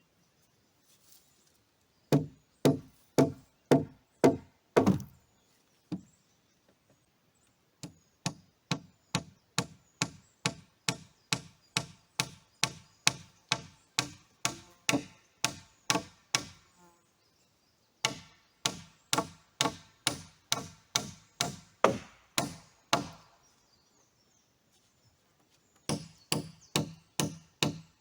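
Nails being driven into log timber with the butt of an axe: sharp, ringing blows at about two a second, in four runs of several strikes each with short pauses between.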